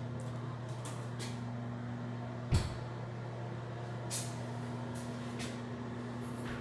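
A steady low hum with several faint clicks and one short knock about two and a half seconds in.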